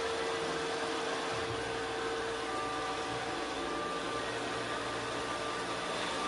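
An electric appliance motor running steadily: an even hiss with a constant hum.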